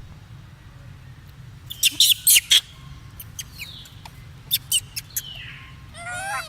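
A monkey's high-pitched squeaks: a quick run of four about two seconds in, a few more a couple of seconds later, then a short wavering call near the end.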